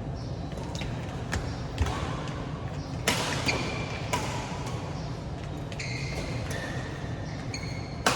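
Badminton rally: sharp racket strikes on the shuttlecock at irregular intervals, several close together in the first half and one loud one near the end, with short high squeaks from about the middle on, over steady low background noise.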